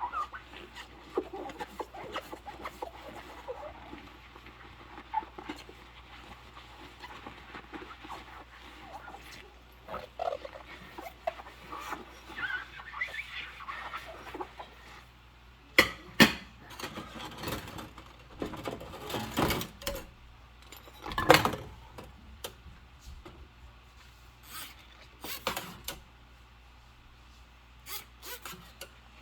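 Rubber dish gloves squeaking and rubbing on wet dishes during hand washing, with sharp clinks and knocks of dishes being handled, the loudest ones in the second half.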